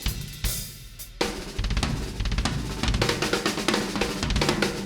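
Drum kit played with its drums damped by Trutone dampeners for control of overtones. Kick, snare and cymbal hits open it, and a busier run of strokes follows from about two seconds in.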